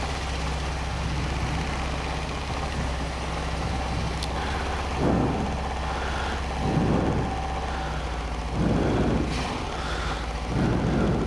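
Honda Rincon 650 quad's single-cylinder four-stroke engine running at low speed, with four louder surges about two seconds apart in the second half.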